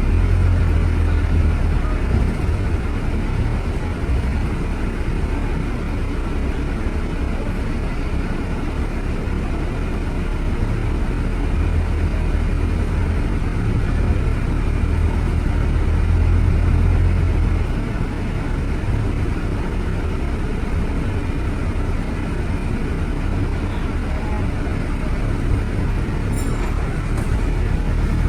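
Steady low rumble of road traffic: vehicle engines and tyre noise, with the deep rumble swelling for a few seconds about halfway through.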